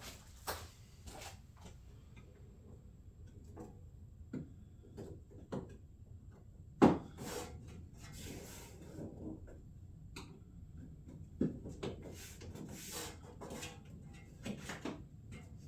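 Hands working plastic fender shroud parts and their small clips and bolts: scattered clicks, knocks and rubbing, with a sharp knock about seven seconds in and another about four seconds later.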